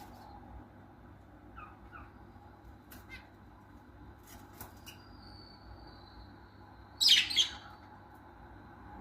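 Pet birds giving a few soft chirps and faint clicks, then one loud, harsh squawk about seven seconds in.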